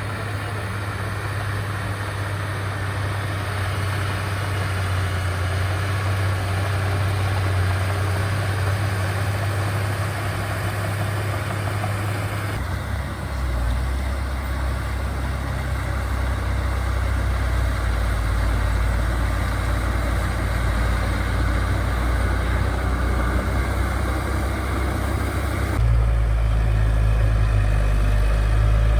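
Diesel engines of earthmoving machines, bulldozer or dump truck, running steadily with a deep engine hum. The hum changes pitch abruptly twice.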